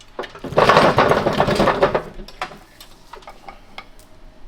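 Steel parts of a wrecked NV5600 transmission clattering for about a second and a half, then a few scattered light metal clinks.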